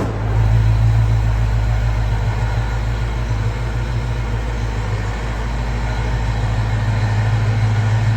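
1966 Ford Mustang's engine idling steadily.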